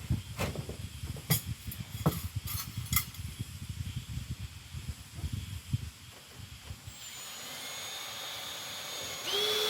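Scattered knocks and clicks of handling work, then from about seven seconds a power drill running with a steady whine, getting much louder near the end.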